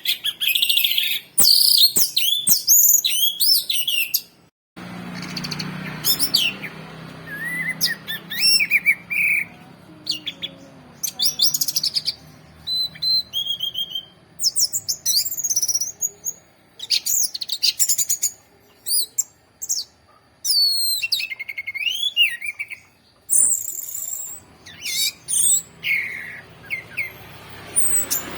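Orange-headed thrush singing a long, varied song of quick whistled phrases and trills, with a short break about five seconds in.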